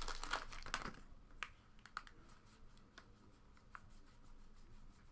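A pack wrapper crinkling for about the first second, then faint scattered clicks and slides of trading cards being flipped through by hand.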